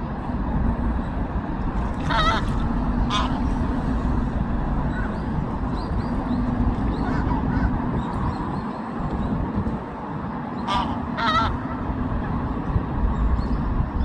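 Eurasian coots giving short, wavering honk-like calls: a pair about two seconds in and another pair near eleven seconds. A steady low rumble runs underneath.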